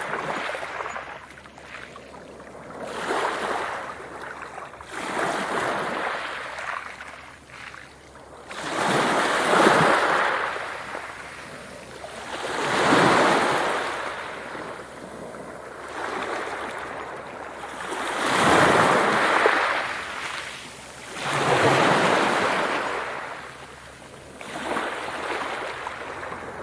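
Ocean waves washing in, a rush of water that swells and fades about every three to four seconds.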